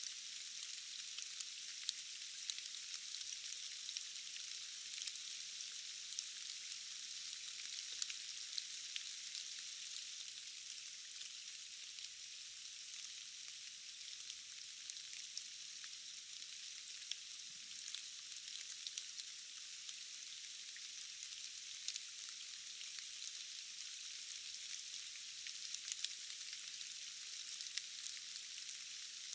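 Steady rain falling in a forest, an even high hiss dotted with many small drop ticks and almost no low rumble.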